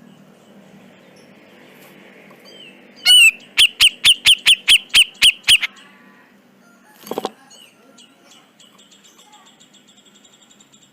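Cucak jenggot bulbul calling: a fast, loud run of about a dozen sharp notes, each slurring down in pitch, then a single harsh call a little later, followed by faint rapid twittering.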